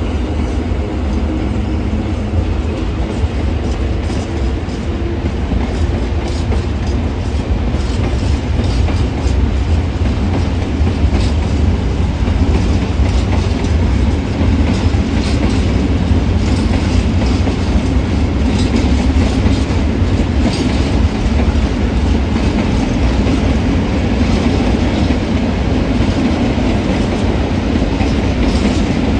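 Freight train of empty open coal wagons hauled by an ET41 electric locomotive, rolling past with a steady low rumble and a continual clatter of wheel clicks.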